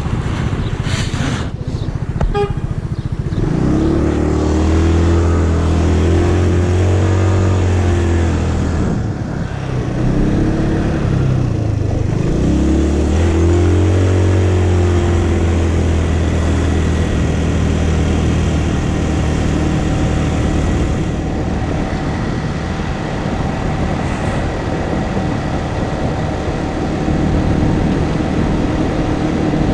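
Motorcycle engine running while riding, its pitch rising and falling with the throttle: it drops twice, about nine and twelve seconds in, then climbs again. A steady rushing noise runs underneath.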